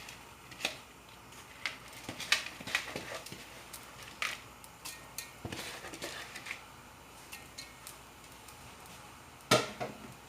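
Kitchen utensils knocking and clinking against cookware in irregular sharp clicks, the loudest knock near the end.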